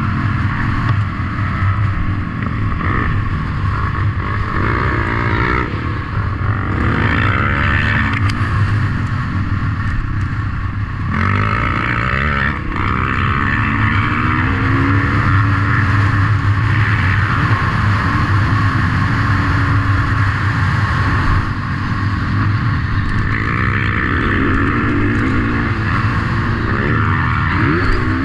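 Motocross bikes' engines revving up and down again and again, with several bikes heard at once.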